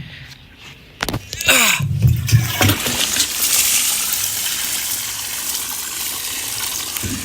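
Vinegar draining out of a car's steel fuel tank, used there as a soak to clean out rust. A knock about a second in, then a steady gushing splash of liquid pouring out.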